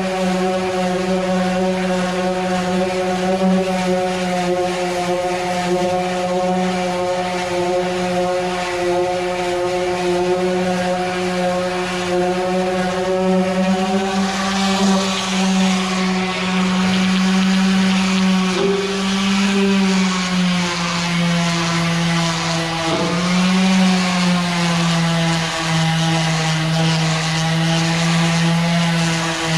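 Electric sander running continuously against an aluminum fuel tank, a steady motor hum whose pitch sags a little several times in the second half, with more gritty hiss from about halfway through.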